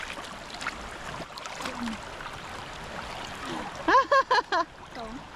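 Fast-flowing stream water rushing steadily, with a child's short high-pitched call about four seconds in.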